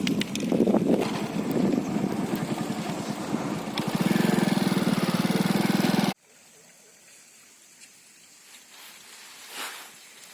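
A small engine running close with a fast, even pulse, cut off suddenly about six seconds in, after which only a quiet outdoor background remains.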